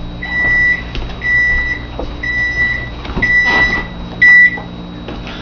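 Oven timer beeping once a second with an even, high single-pitched tone; the fifth beep is the loudest, and then the beeping stops.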